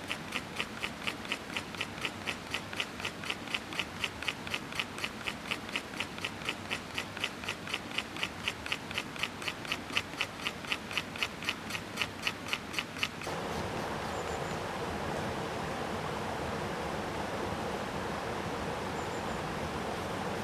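Mountain stream rushing steadily, overlaid for most of the time by a fast, even run of rasping strokes, about three a second, that stops abruptly about thirteen seconds in.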